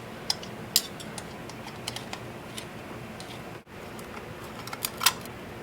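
Irregular light clicks and taps from an Allen key and small screws being worked out of an exhaust silencer's end cap, with a few sharper clicks near the start and near the end and a brief gap just past halfway.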